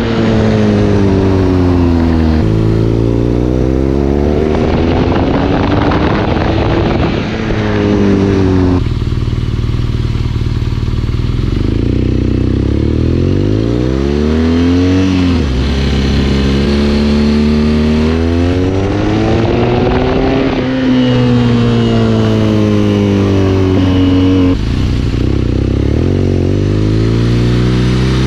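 BMW R nineT Scrambler's air-cooled boxer twin engine, heard from the rider's seat while riding. Its pitch rises with the throttle and sinks as it eases off, with several abrupt steps in between.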